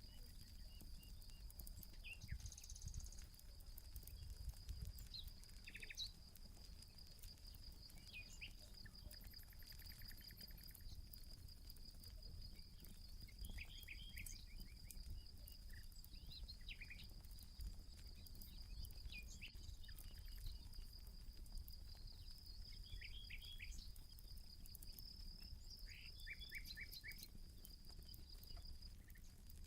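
An insect trills on one high, finely pulsed note throughout, stopping near the end, while birds give short chirps every few seconds. Faint crackles of a campfire and a low rumble run underneath.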